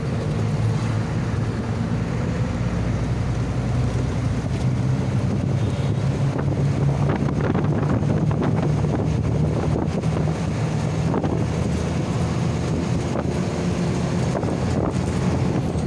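A motor engine running steadily, with wind rushing over the microphone.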